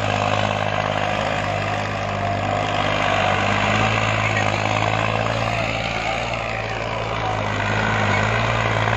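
New Holland tractor's diesel engine running steadily with a deep, even hum, the pitch rising and falling only slightly.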